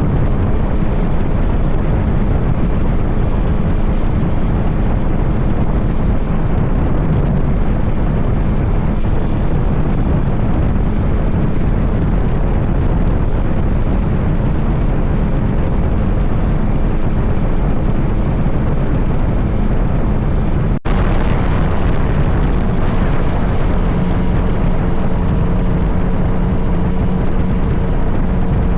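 Wind noise on the microphone from a motorcycle riding at road speed, with the bike's engine running underneath. The sound drops out briefly about 21 seconds in and picks up on another stretch of riding, where a steady engine note shows through near the end.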